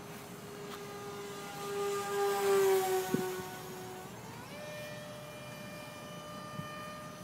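Electric ducted fan of an RC model jet whining. The pitch sags slightly while it briefly grows louder and hissier, then rises to a higher steady pitch a little past the middle as the throttle comes up. There is one short knock about three seconds in.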